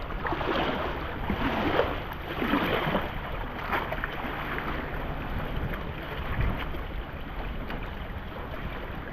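Water splashing and sloshing around a kayak in irregular swells about a second apart, with wind buffeting the microphone.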